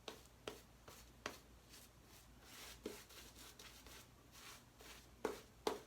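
Faint scratchy swirling of a synthetic shaving brush being loaded on a tub of shave soap, with a few light taps and clicks as the gear is handled, two of them close together near the end.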